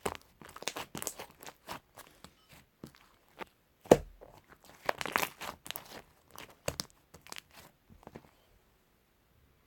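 Slime being squished and stretched by hand, giving irregular sticky clicks, crackles and pops. The loudest pop comes about four seconds in, and the sounds die away near the end.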